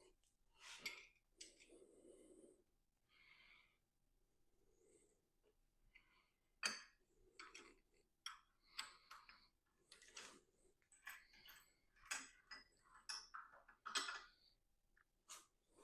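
Tools and engine parts being handled: scattered light clicks, taps and brief scrapes, the sharpest click about seven seconds in.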